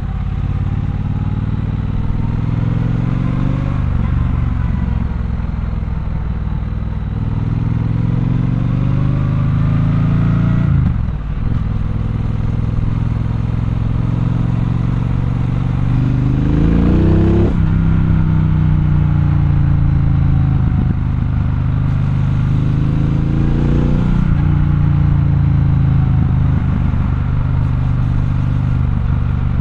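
Triumph Bonneville Bobber's 1200 cc parallel-twin engine running under way, its revs climbing and dropping back sharply about four times.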